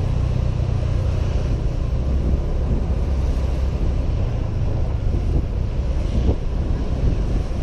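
Wind rumbling over a helmet-mounted camera's microphone while riding a Honda PCX 125 scooter, with the engine and road noise running low beneath it.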